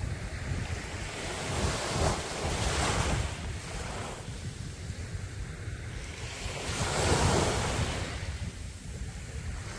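Sea waves washing onto a beach, two louder swells breaking about two seconds in and again about seven seconds in, with wind rumbling on the microphone.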